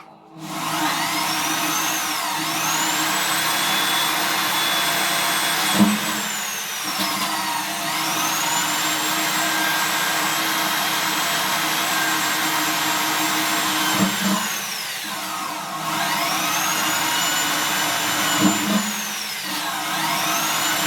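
Electric drill running while drilling small holes through sheet steel. The motor's whine dips in pitch and climbs back several times as the drill slows and speeds up, with a few brief knocks between.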